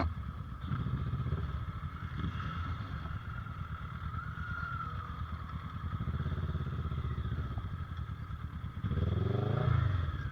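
Motorcycle engine running steadily under way, getting louder with a rising pitch near the end as it picks up revs.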